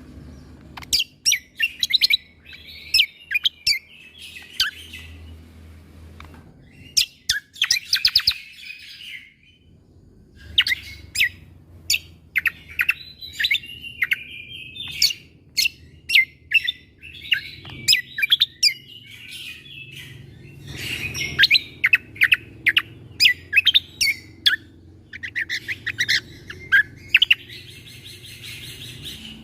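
Cucak kombo (kecial kombo) songbird singing in bursts of rapid, sharp, shot-like chirps and trills, with short pauses between the phrases.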